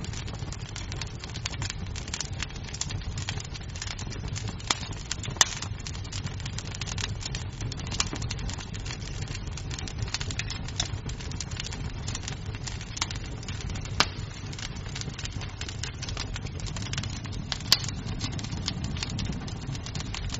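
Wood fire in a fireplace crackling: a steady low rumble of burning with constant small snaps of the wood and a few louder pops.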